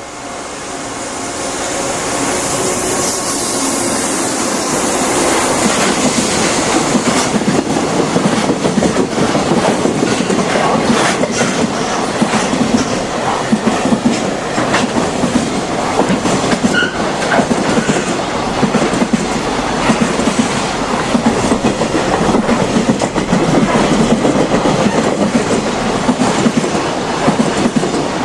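Freight container train passing close by: the sound grows over the first few seconds with a high hiss as the locomotive comes up, then the container wagons follow with a steady clatter of wheels over the rail joints.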